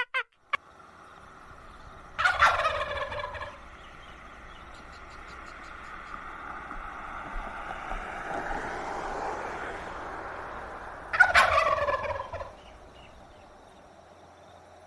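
Two loud, rapidly rattling animal calls, about nine seconds apart, over a steady background hiss.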